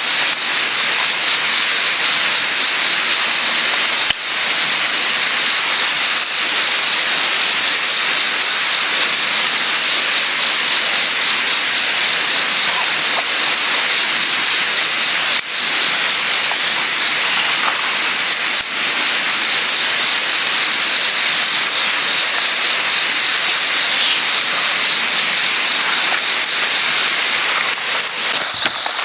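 A river rushing past as a steady, loud hiss, with a constant high-pitched drone of insects over it.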